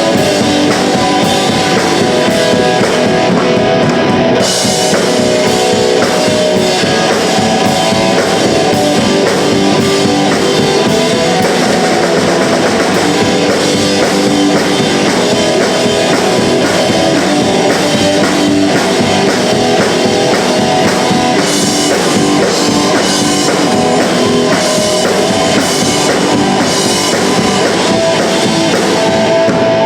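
Punk rock band playing live: electric guitars, bass and drum kit at full volume, with the cymbals coming in about four seconds in.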